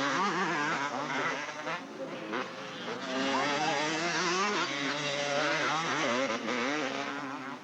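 Several motocross motorcycle engines revving up and down at once, their pitches rising and falling and overlapping, with a short dip about two seconds in.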